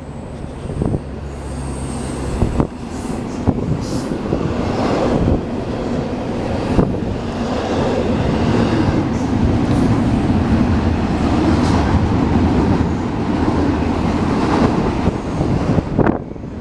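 A train rolling past at close range: a continuous rumble of wheels on rail with scattered clanks, growing louder over the first several seconds, then staying loud.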